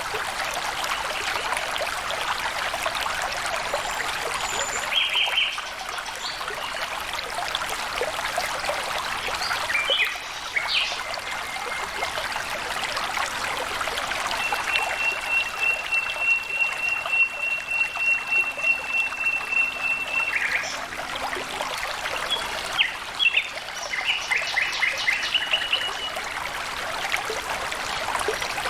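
Water trickling and babbling steadily along a small stream. Birds call over it: scattered short chirps, one long steady high note held for about six seconds midway, and a run of quick repeated chirps near the end.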